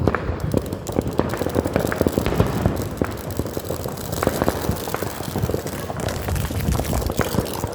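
Consumer fireworks going off as a dense run of rapid crackling pops, many a second, with some sharper cracks among them.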